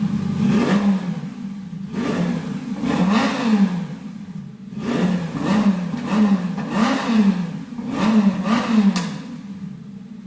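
Lamborghini Gallardo's V10 through a Guerrilla bypass exhaust, revved in a series of quick blips, the pitch rising and falling each time, then dropping back to a steady idle near the end.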